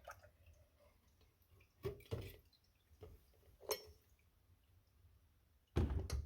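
A few faint, separate clinks and knocks of metal carburetor parts being handled, with a louder knock near the end.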